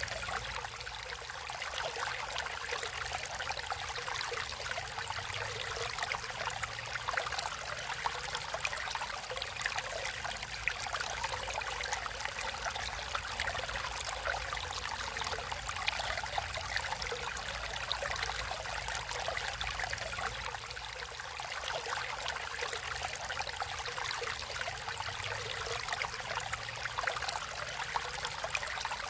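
Water flowing and trickling steadily, with a constant splashing babble.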